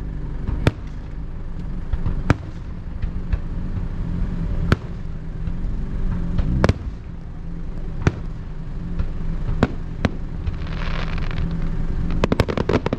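Aerial firework shells bursting with a sharp bang every second or two over a steady low rumble, then a quick string of crackling pops near the end.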